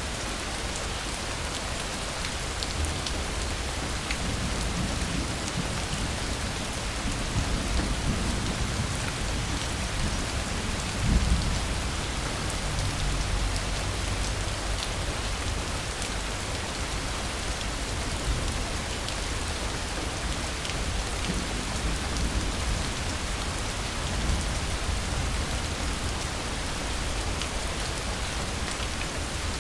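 Steady rain falling, an even hiss of drops. A low rumble of distant thunder builds a few seconds in, peaks about a third of the way through, then fades back into the rain.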